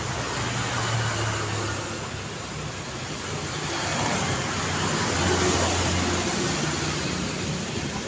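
City road traffic: cars passing with engine hum and tyre noise, swelling as vehicles go by about a second in and again from about four to six seconds.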